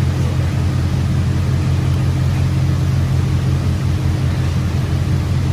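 Steady, loud low mechanical hum from running shop machinery.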